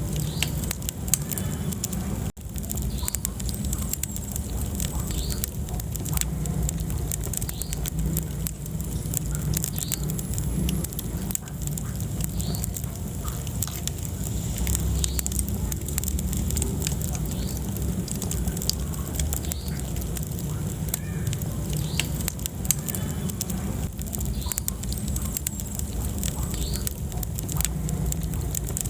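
Wood fire burning in a fireplace, crackling with frequent small irregular pops and snaps over a steady low rumble of the flames.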